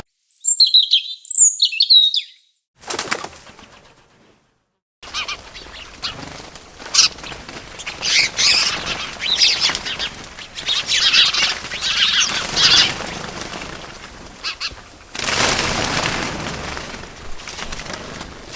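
Birds: two sharp high chirps at the start, then after a short silence a long spell of wings flapping mixed with bird calls, with a louder rush of flapping wings near the end.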